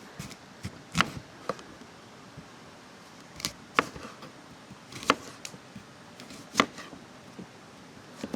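A knife knocking on a cutting board as food is cut: about six sharp, irregular strokes spread over several seconds.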